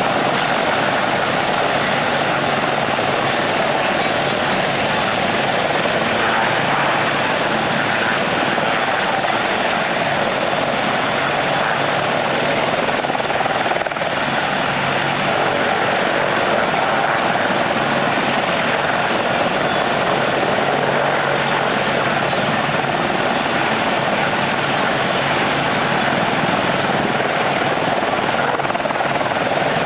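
Military helicopters' engines and rotors running steadily: an even, unbroken rush of noise with a faint low hum underneath.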